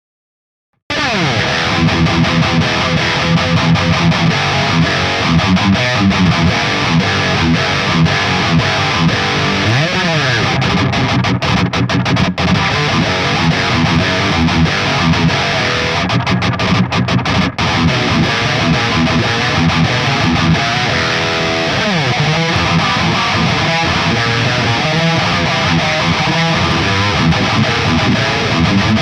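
Jackson SL2 Pro Soloist electric guitar played through distortion, starting about a second in and riffing steadily, with two sliding pitch glides, one about ten seconds in and one about twenty-two seconds in.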